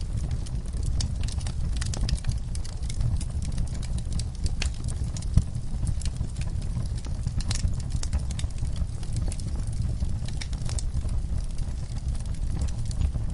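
Wood fire burning in a fireplace: a steady low rumble of the flames under irregular crackles and pops, with one louder pop about five seconds in.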